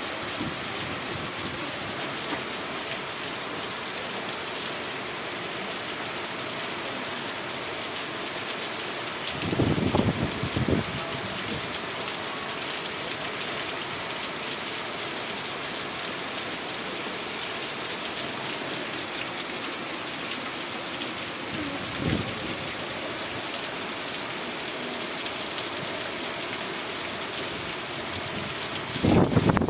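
Steady rain falling, an even hiss throughout. Brief louder low sounds break in about ten seconds in, again around twenty-two seconds, and near the end.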